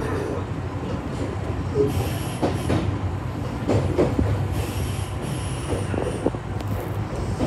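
Kintetsu commuter electric train running, heard from inside the front car: a steady low drive hum under irregular knocks as the wheels pass over rail joints and pointwork.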